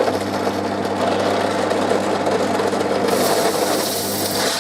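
Power drill switched on and running steadily with a steady low hum, drilling a hole through a plastic CD disc backed by wood; from about three seconds in a louder hiss as the bit cuts through.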